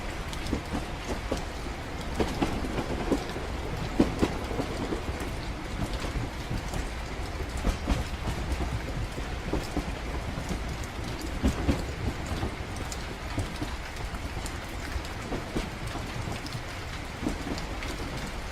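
Train-journey ambience: a steady low rumble of a train running on rails, with rain falling throughout as a dense scatter of small ticks and a few heavier knocks.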